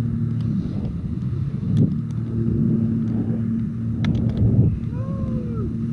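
Jet ski engine running at a steady pitch, overlaid by surges of rushing water and wind noise, with a few sharp clicks about four seconds in.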